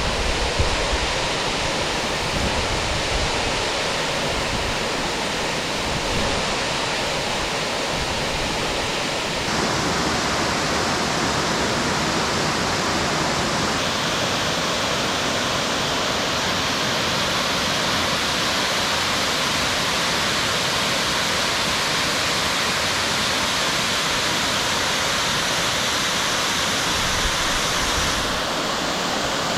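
Waterfall rushing: a loud, steady rush of falling water. Its tone shifts abruptly about a third of the way in, again soon after, and near the end.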